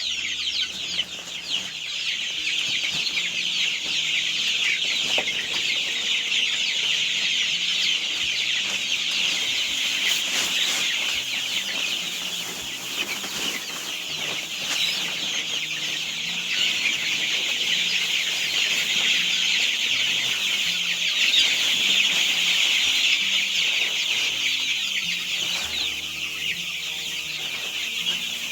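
A flock of young chicks cheeping nonstop, with many high, short peeps overlapping into one continuous chorus.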